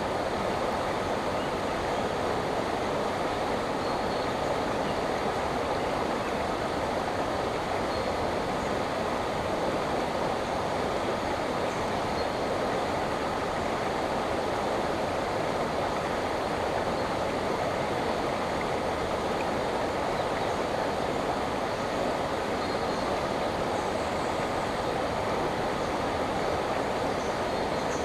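Andaka river flowing over its bed: a steady rushing of water that does not change. Faint, scattered bird chirps sit high above it.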